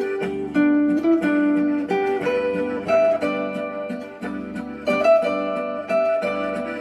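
Zither playing a melody of plucked, ringing notes over a repeating accompaniment of lower plucked chords and bass notes.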